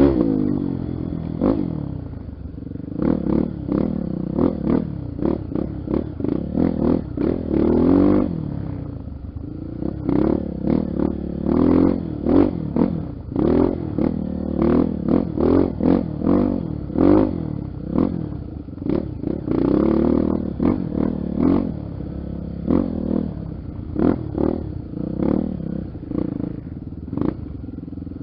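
Honda XR 250 Tornado's single-cylinder four-stroke engine revving up and down again and again, with frequent short knocks and clatter.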